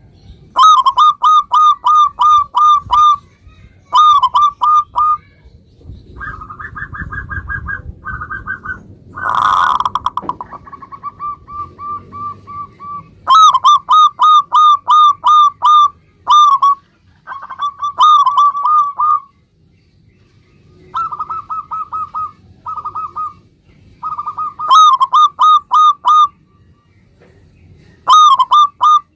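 Zebra dove (perkutut) cooing in loud runs of quick, evenly repeated clipped notes, each run lasting one to three seconds with short pauses between. Softer runs of similar notes come in some of the gaps, and one harsher, louder note sounds about nine seconds in.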